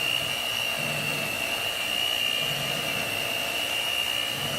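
Electric hand mixer running at a steady speed with a high, even whine, beating thick fudge mixture in a glass bowl.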